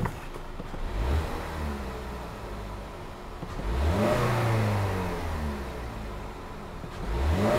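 2015 Ford Edge engine idling and revved three times by throttle blips, about a second in, near the middle and near the end. Each time the revs rise quickly and then fall slowly back to idle.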